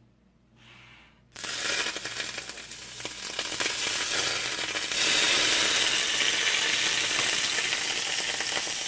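Olive oil and margarine frying in a hot pan, the sizzle starting suddenly just over a second in and growing louder about five seconds in.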